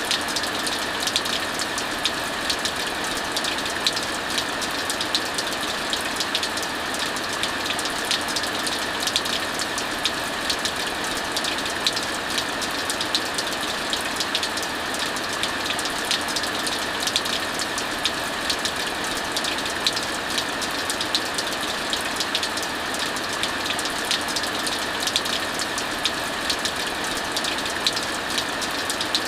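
Heavy rain falling steadily with a fireplace crackling over it: a constant hiss of rain and many small sharp pops from the burning wood.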